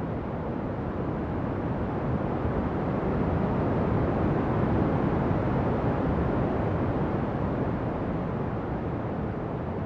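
Ocean waves washing onto a shore: a steady surf rush that swells to one broad peak about halfway through and then eases back.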